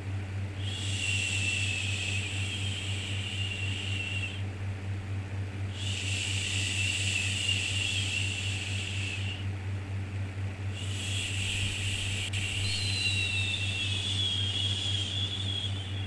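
A soothing 'shhh' shushing sound for calming a baby, repeated as three long hisses of a few seconds each with short pauses between, over a steady low hum.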